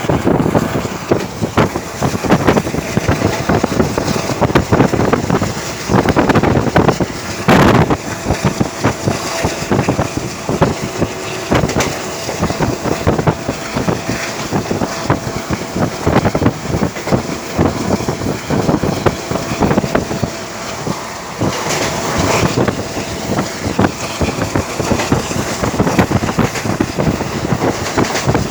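Train running at speed, heard from on board: a steady rumble and rattle of the wheels on the track, with wind buffeting the microphone.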